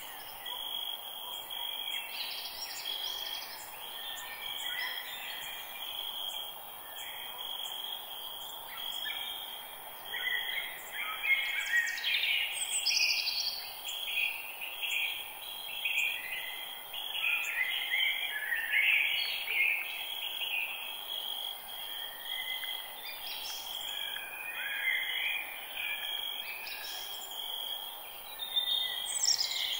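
Forest ambience: several birds chirping and calling in overlapping short phrases, busiest in the second half, over a steady high insect trill and faint hiss.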